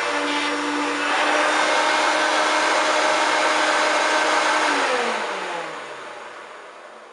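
1993 Hoover Turbopower 1 U2798 vacuum cleaner running loudly, its note shifting slightly about a second in, then switched off a little under five seconds in, the motor winding down with a falling whine. The owner finds it a bit creaky and knackered but still pulling well.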